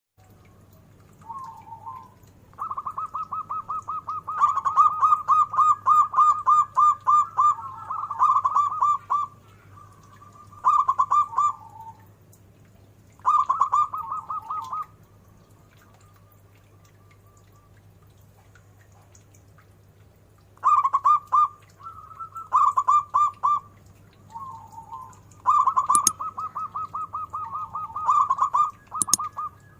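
Zebra dove (perkutut) cooing: phrases of fast, rolling staccato coos at about one pitch, each lasting one to a few seconds, with a long pause in the middle. Two sharp clicks sound near the end.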